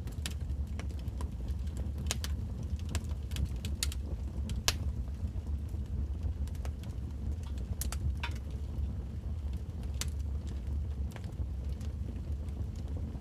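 Wood fire burning and crackling: irregular sharp pops and snaps scattered over a steady low rumble, with the loudest pop a little under five seconds in.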